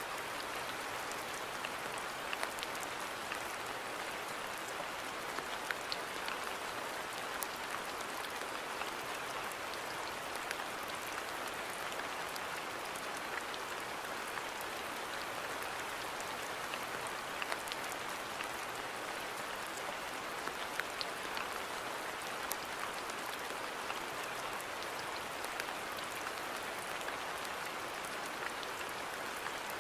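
Steady rain falling in a garden, an even patter with scattered sharper drops hitting close by.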